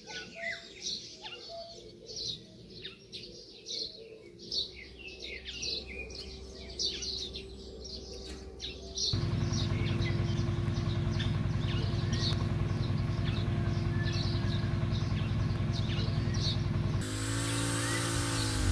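Birds chirping, with many short high calls over a quiet background. About nine seconds in, a much louder steady low hum takes over. Near the end it gives way to a wide hiss with a wavering pitched drone.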